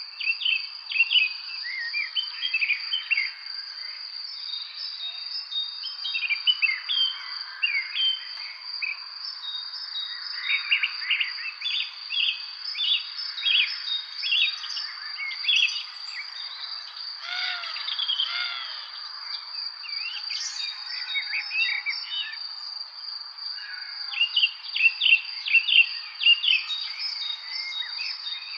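A chorus of songbirds chirping and calling densely, with many quick overlapping notes. A steady high insect trill runs unbroken underneath, and a few lower, rounder calls come in about two-thirds of the way through.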